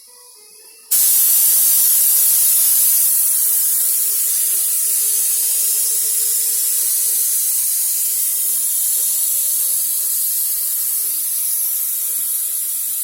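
Air-fed paint spray gun spraying, a steady hiss that starts suddenly about a second in and eases slightly as it goes on.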